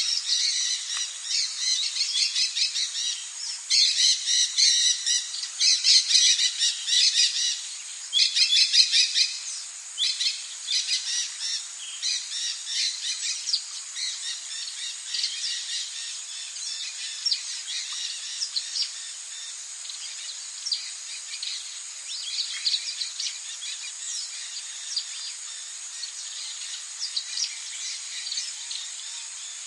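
Several birds singing and chirping in quick, dense runs of high notes, busiest in the first third and thinning out later, over a steady high hiss.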